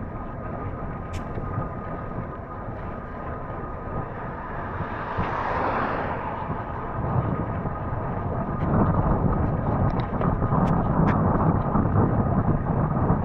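Rumbling wind and movement noise on the microphone, growing louder from about seven seconds in.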